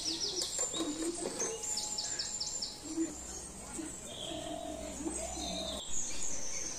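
Small birds chirping outdoors: runs of quick, high, falling notes, one near the start and another about two seconds in, with scattered calls after.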